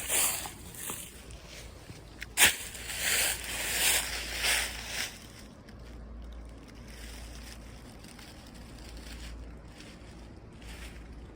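Footsteps rustling through leaf litter in uneven bursts, with one sharp snap a couple of seconds in. After about five seconds the steps stop, leaving only a faint low wind rumble.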